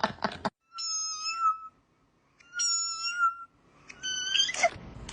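A cat meowing three times, each call high-pitched, held level, and under a second long, with short pauses between.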